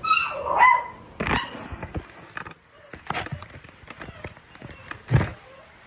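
A puppy gives two short high yelps at the start, followed by scattered clicks and knocks and a dull thump about five seconds in.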